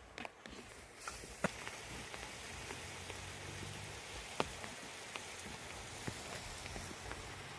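Rain falling steadily, a hiss that sets in about a second in, with a few sharp drip-like taps, the loudest near the middle.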